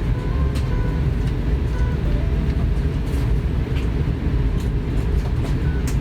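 Steady low rumble inside the cabin of an Airbus A340-600 airliner, with a few faint clicks over it.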